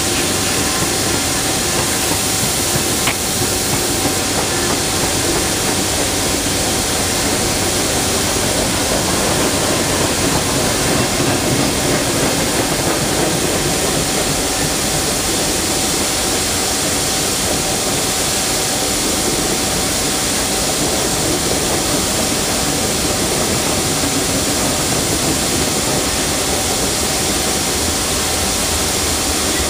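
Norfolk Southern freight train's covered hopper cars and a tank car rolling past: a loud, steady rolling noise of steel wheels on rail, with a faint steady whine running through it.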